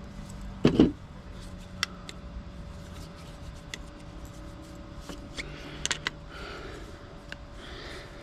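Scrap metal being handled during a teardown: one loud knock a little under a second in, then a few light, sharp metallic clicks and taps, over a faint steady hum.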